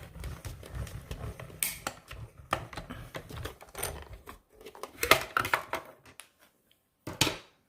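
Hand-cranked mini die-cutting machine being turned, its rollers drawing a sandwich of cutting plates and a die through with a low, steady rumble for about four seconds. Then come clicks and clacks as the plates are handled after the pass.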